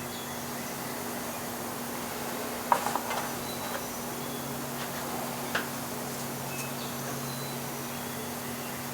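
A steady low hum, with a few light clicks and taps a little under three seconds in and another single click past the middle.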